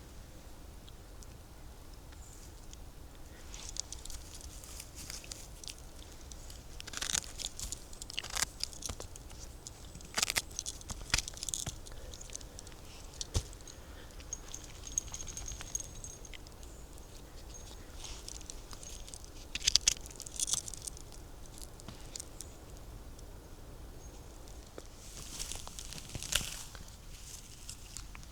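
Dry leaf litter and twigs on the forest floor crunching and snapping, in irregular bursts of crackles with pauses between them.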